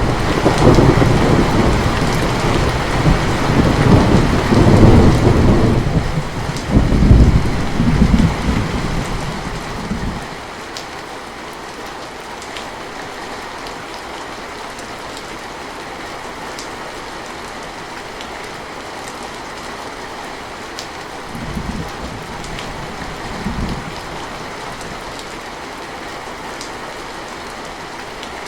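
Steady rain falling, with a long roll of thunder that swells twice and dies away about ten seconds in. Later, two short, fainter rumbles of thunder come a couple of seconds apart.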